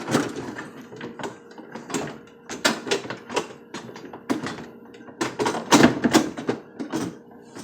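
Plastic refrigerator panel being pulled off and handled, an irregular run of clicks and knocks, loudest about five to six seconds in.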